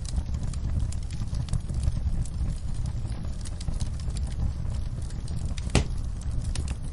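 Wood fire burning in a fireplace, crackling with frequent small pops over a low steady rumble, and one louder pop near the end.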